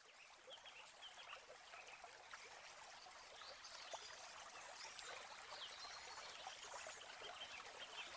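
Faint outdoor ambience fading in: water trickling, with many small high chirps scattered through it.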